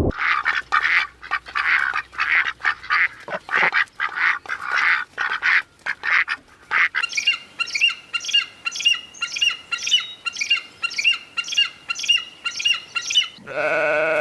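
Farm poultry calling rapidly and over and over: harsh calls at first, then, about halfway through, clearer, evenly spaced calls at two or three a second. A sheep or goat bleat begins near the end.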